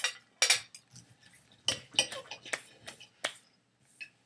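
Cutlery and a plate clinking: a run of short, sharp clinks at irregular intervals.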